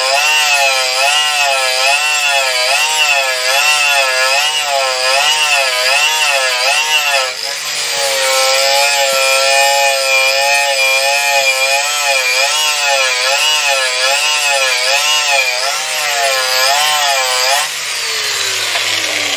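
Electric power tool motor running under load, its pitch rising and falling about once a second as it is worked back and forth, briefly dipping about seven seconds in and starting to slow near the end.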